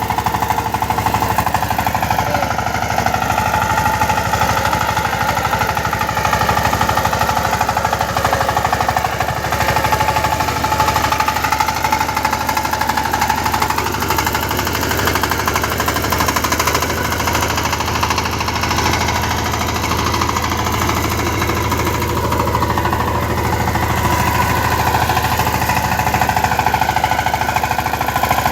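Power tiller engine running steadily with a fast, even chugging beat.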